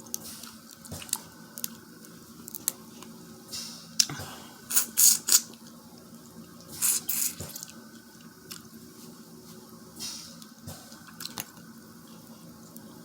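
Close-up mukbang eating sounds: wet slurping and sucking on butter-sauced seafood, with a few short slurps in the middle and scattered smacking clicks.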